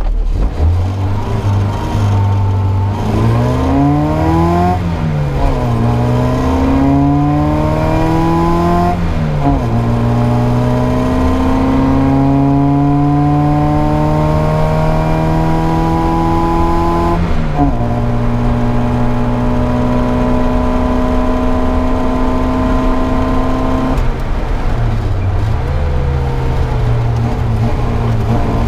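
Austin Mini's four-cylinder A-series engine, heard from inside the car, running hard under acceleration. Its note climbs in pitch and drops sharply at three upshifts about 4.5, 9 and 17 seconds in. It then holds a steady note, eases off briefly about 24 seconds in, and picks up again.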